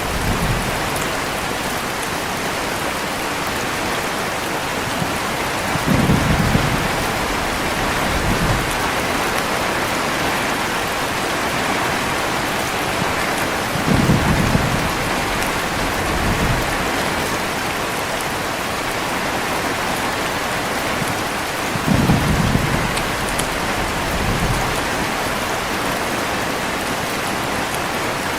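Heavy rain falling steadily, with low thunder rumbling in about every eight seconds. Each rumble is followed by a fainter one a couple of seconds later.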